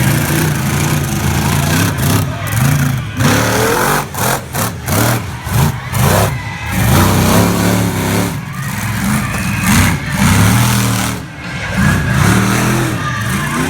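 RC monster truck's engine revving up and down over and over under full throttle, dropping off briefly a few times between bursts.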